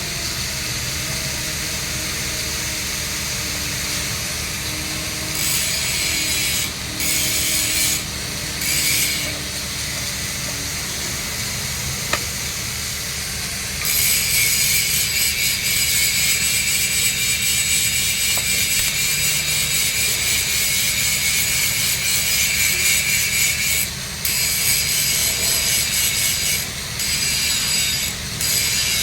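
Stick-welding arc on steel pipe crackling and hissing in runs that start and stop, short at first and then long from about halfway through, over a steady low hum.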